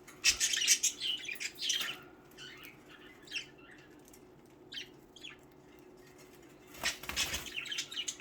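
Budgerigars chattering and squawking in short harsh bursts, with a spell of quieter chirps in the middle: two budgies squabbling. A flurry of wing-flapping runs through it.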